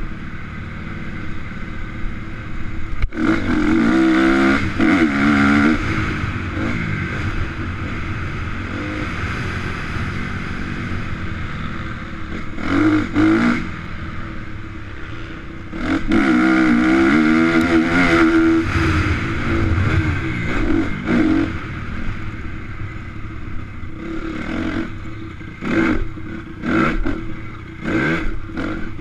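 Motocross bike engines revving and passing on a dirt track, their pitch rising and falling with the throttle. There are loud passes about four seconds in and again about sixteen seconds in, and a run of short, sharp revs near the end.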